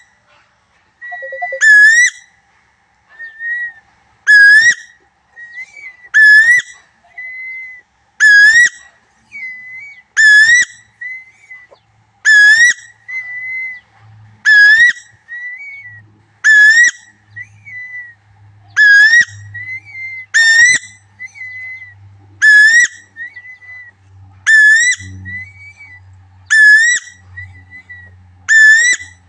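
Repeated whistled call of the tuwu bird of eastern Indonesia, played as a lure recording: one loud note about every two seconds that dips slightly and then rises sharply, with softer, shorter whistles between them. A faint low hum runs under the later calls.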